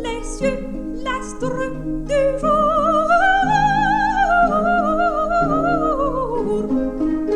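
Coloratura soprano singing an opera aria with orchestral accompaniment and plucked strings. About two seconds in, a long phrase with wide vibrato climbs, holds high and slides back down.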